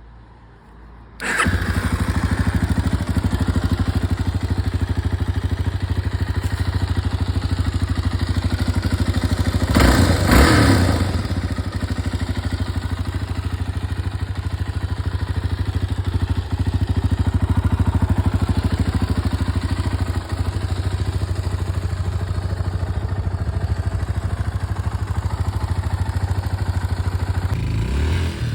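Freshly rebuilt Yamaha TTR250 single-cylinder four-stroke engine starting about a second in, then running steadily at idle, with a brief rev about ten seconds in and revving up again near the end.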